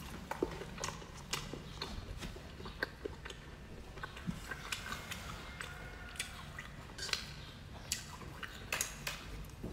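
Close-up mouth sounds of someone chewing braised pork belly: irregular wet clicks and smacks as she bites and chews.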